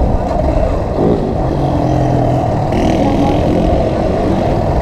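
Motorcycle engine running under way, its note shifting with the throttle and briefly rising about a second in, over a steady rumble of wind and road noise.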